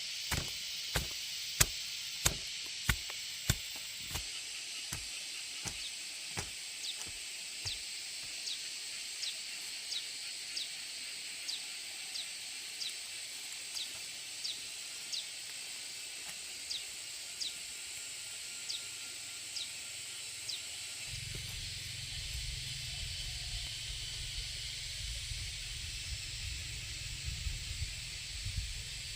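Repeated sharp knocks, about one and a half a second, over a steady hiss. After about four seconds the knocks fall to faint clicks at the same pace, and a low rumble comes in about two-thirds of the way through.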